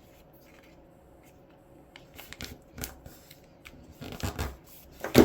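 A sheet of paper being handled and folded, rustling and crinkling in short bursts from about two seconds in, the loudest near the end.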